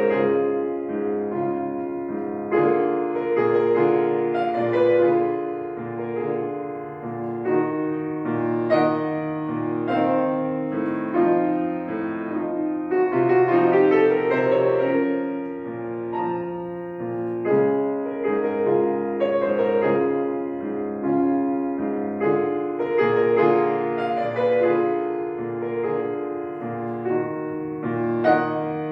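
Solo piano playing a prelude: a continuous flow of overlapping, sustained notes and chords.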